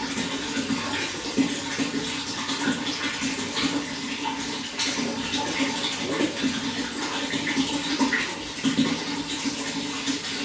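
Running water, splashing and gurgling continuously with many small irregular splashes.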